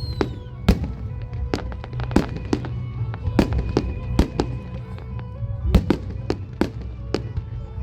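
Fireworks display with shells bursting in sharp bangs, irregularly about twice a second, over music.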